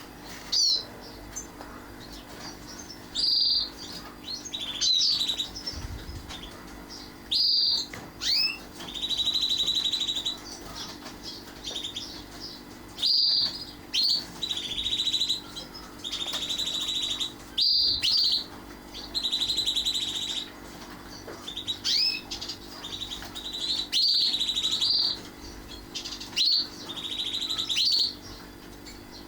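Canary calling: short sharp chirps, each run ending in a buzzy trill about a second long, repeated every few seconds.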